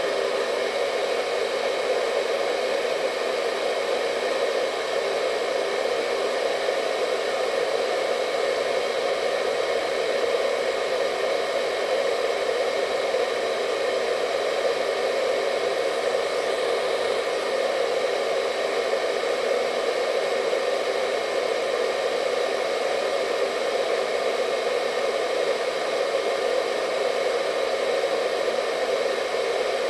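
Hair dryer running continuously at a steady speed: an even, unbroken rushing hum of blown air with a faint motor whine.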